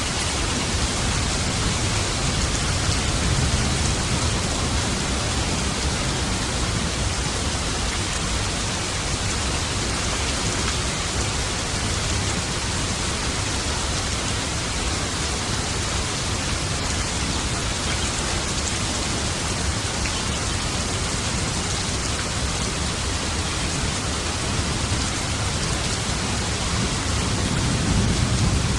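Steady heavy rain, a dense even hiss, with low swells of distant thunder rumbling about three seconds in and again near the end.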